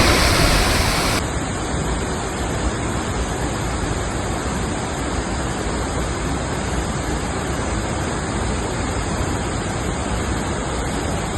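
A large waterfall rushing steadily. About a second in, the highest hiss drops away and the rush turns a little duller.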